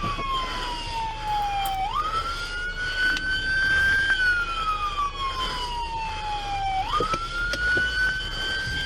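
Police car siren wailing in slow cycles: the pitch falls for about two seconds, jumps sharply back up, climbs slowly and falls again, twice over.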